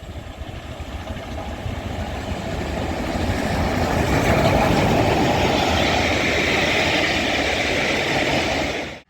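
A train passing close by, a steady rumbling rattle of wheels and carriages on the rails. It grows louder over the first few seconds, holds steady, then cuts off suddenly near the end.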